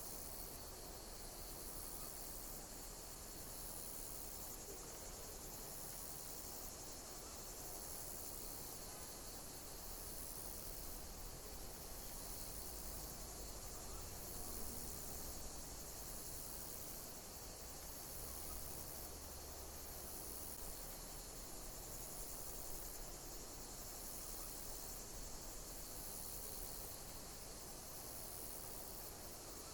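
Insects chirping: a high-pitched chirping trill repeats about every two seconds over a steady high hiss of insect noise.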